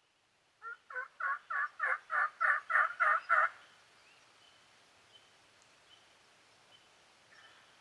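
Turkey calling: a run of about ten evenly spaced notes, roughly three a second, growing louder over some three seconds and then stopping.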